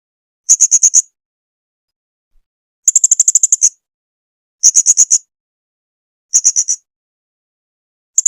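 Blue-crowned hanging parrot (serindit) calling: short bursts of rapid, very high-pitched notes, each burst under a second long, five times with silent gaps of one to two seconds between.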